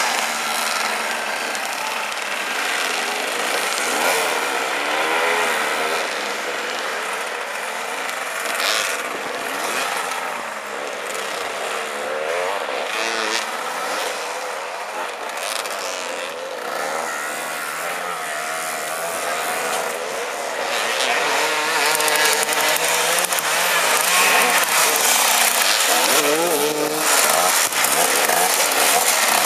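Several motoball off-road motorcycle engines revving and idling together, their pitch rising and falling as the riders jockey for the ball; the engine noise grows louder about two-thirds of the way through.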